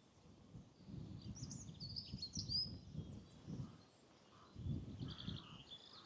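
Small songbirds chirping and trilling in short high calls, in two bouts, over low muffled thuds.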